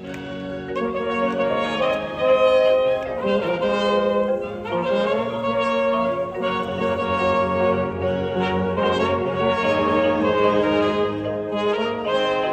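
High school marching band playing, brass to the fore: trumpets and trombones holding chords that change every second or so, a low bass line coming in about two thirds of the way through.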